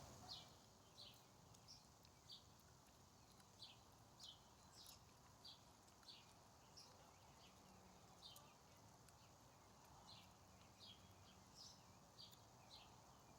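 Faint, irregular series of short, high chirps from a small bird, roughly one every half second to second, over a quiet outdoor background.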